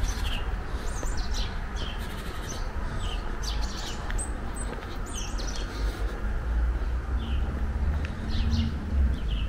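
Small birds chirping in many short, quick calls over a low rumble.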